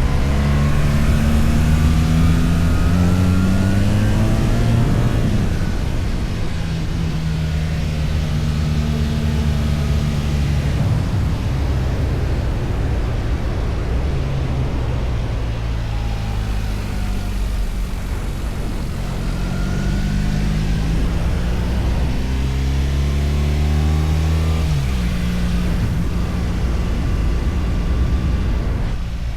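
Motorcycle engine on the move, its pitch climbing as it pulls through the gears and dropping sharply at a gear change, over a steady rushing hiss.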